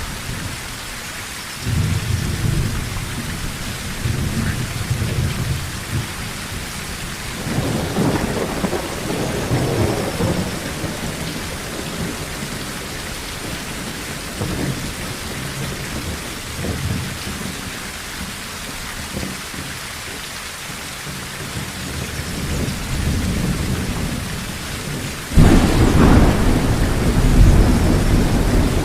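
Steady rain on a tin roof with rolling thunder: low rumbles a couple of seconds in and again around the middle, then a sudden loud clap of thunder near the end that keeps rumbling.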